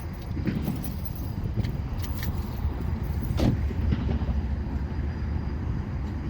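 Diesel switcher locomotive running with a steady low rumble while switching freight cars, with a few sharp metallic knocks, the loudest about three and a half seconds in.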